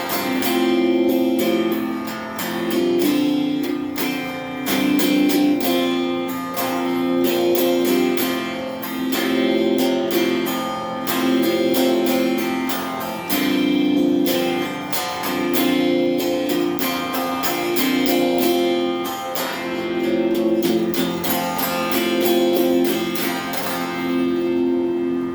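Donner Q1 HSS Strat-style electric guitar played through a small Cahaya amp with phaser and reverb pedals. Chords are strummed and picked in a steady rhythm, changing every second or two.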